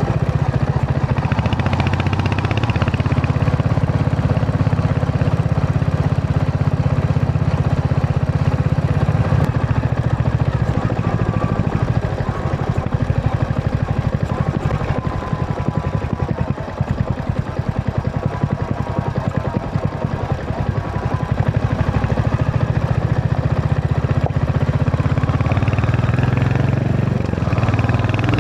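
Royal Enfield Hunter 350's single-cylinder engine running steadily under way, its exhaust pulses dense and even. It eases off somewhat a third of the way in, then picks up again near the end.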